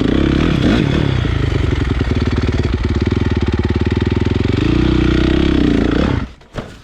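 Honda CRF450 dirt bike's single-cylinder four-stroke engine running loud through an HGS aftermarket exhaust, its pitch rising and falling with the throttle. The engine sound cuts off abruptly about six seconds in.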